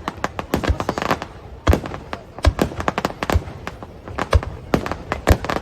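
Fireworks display: shells bursting in quick succession, a deep boom about once a second among many sharper cracks and crackles.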